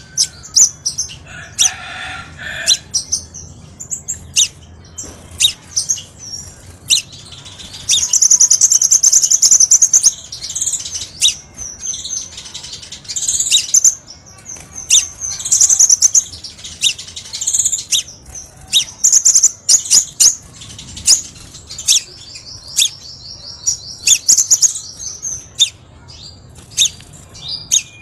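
Crimson sunbird (sepah raja) singing: a dense run of sharp, high-pitched chirps and quick trills, with a long rapid trill a little past the middle.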